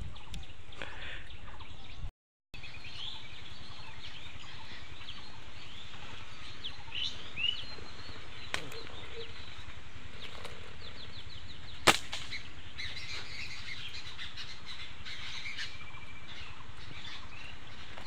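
Small birds chirping and calling in the trees, many short high chirps and quick sweeps throughout. A single sharp snap about twelve seconds in.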